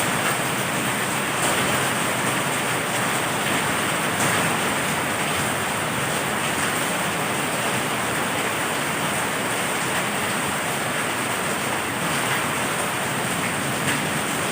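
Heavy rain falling steadily, an even hiss with a few faint crackles of drops.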